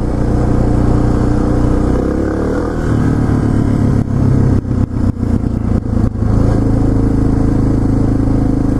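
Suzuki DR650SE single-cylinder motorcycle engine running while riding; its note shifts about two seconds in, goes choppy with brief drops for a couple of seconds around the middle, then settles into a steady run.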